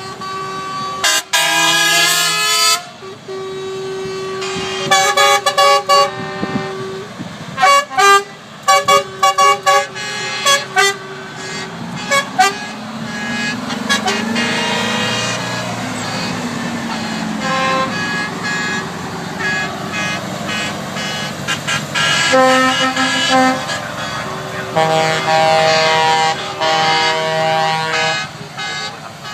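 Trucks sounding their horns as they drive past, over and over: quick runs of short toots and longer multi-note horn blasts. Between the horns, a truck engine is heard passing, rising and then falling away.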